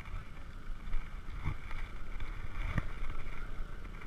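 Wind rumbling on an action camera's microphone during a bike ride, with two sharp knocks about a second and a half apart.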